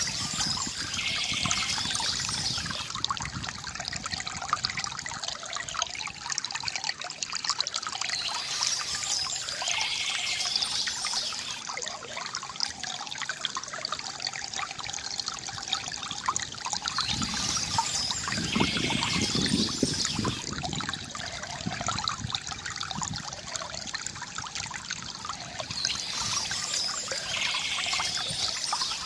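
Water trickling and gurgling from a bamboo fountain, steady, with a pattern that repeats about every nine seconds.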